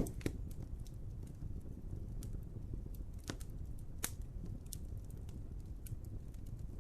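Wood fire crackling, with a low steady rumble of flames under scattered sharp pops and snaps; the loudest pop comes right at the start.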